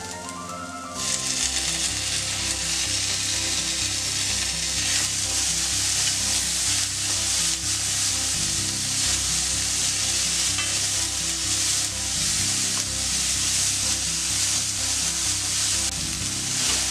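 Chopped tomato going into onions frying in hot coconut oil in an aluminium kadai: the sizzle jumps louder about a second in, then holds as a steady frying sizzle while a slotted spatula stirs and scrapes through the pan.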